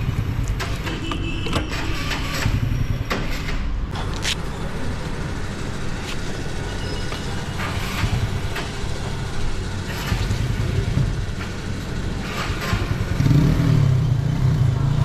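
Motor vehicle engines running, with scattered clicks and knocks. A louder low engine hum comes in near the end.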